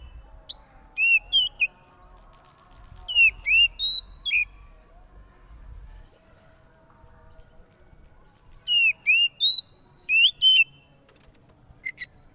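Oriental magpie-robin (kacer) calling noisily: loud, clear whistled notes that swoop up and down in pitch, in quick groups of two to four with pauses between, the excited calling used to lure wild birds.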